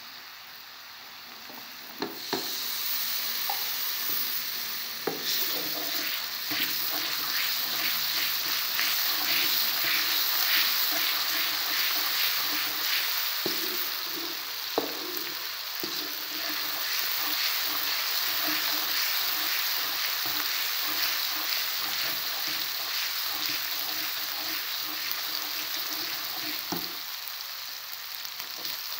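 Chopped onions and garlic paste sizzling in hot oil in a pan, stirred with a spatula that scrapes against the pan in many short strokes. The sizzle grows louder about two seconds in, just after a sharp tap.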